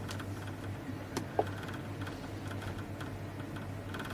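A few light clicks over a steady low hum, two of the clicks close together about a second in.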